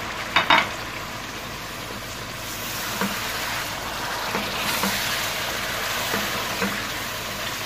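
Mutton with fried onions and garlic-ginger water sizzling and bubbling in a metal pot, being browned. A wooden spoon stirs it, knocking against the pot now and then, loudest as a quick double knock about half a second in.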